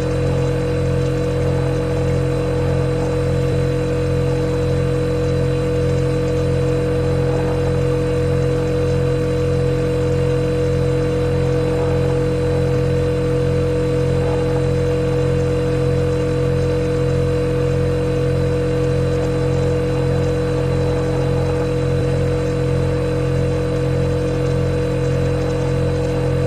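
Refrigerator humming steadily: a continuous drone with a clear steady tone over a low hum, unchanging throughout.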